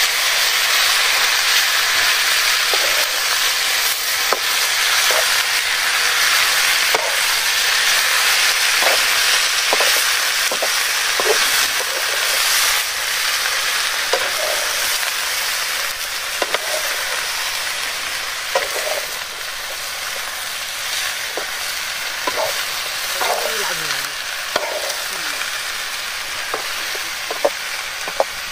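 Cut potatoes deep-frying in a wok of hot oil: a loud, steady sizzle that eases off slowly. A metal ladle stirs and scrapes against the pan now and then.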